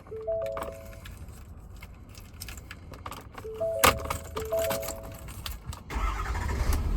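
Ford F550 cab warning chime dinging in repeated tone pairs, with keys and clicks in the cab, then about six seconds in the 6.7 Power Stroke diesel turns over and starts, running with a low rumble.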